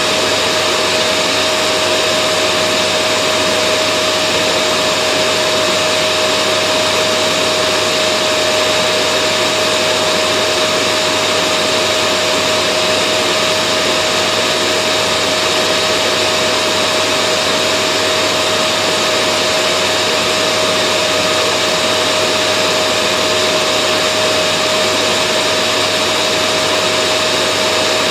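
Vacuum cleaner running steadily: an even rushing of air with a steady mid-pitched whine and a fainter high whine, unchanging throughout.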